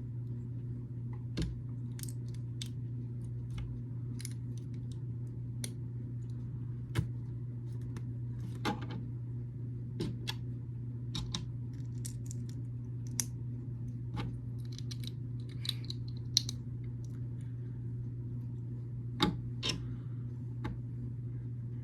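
Small plastic building bricks clicking and tapping as they are handled and pressed together, in scattered single clicks with a brief flurry of lighter ones about two-thirds of the way through, over a steady low hum.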